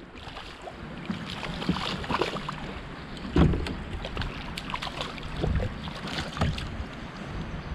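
Irregular small clicks, knocks and water sounds around a fishing kayak while a hooked fish is brought in, with a duller, louder knock about three and a half seconds in.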